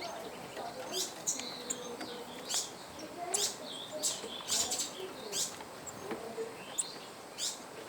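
Small birds chirping: about a dozen short, sharp, high-pitched chirps at uneven intervals, some in quick pairs.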